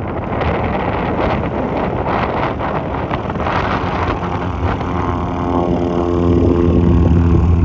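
Wind buffeting the microphone. From about halfway in, a small aircraft's piston engine comes in with a steady, even-pitched hum and grows louder towards the end.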